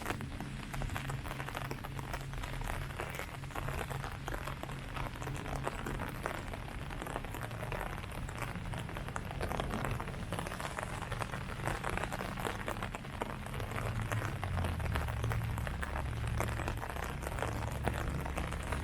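Steady rain falling on leaves, a dense patter of many small drop impacts. A low rumble runs underneath and grows stronger in the last few seconds.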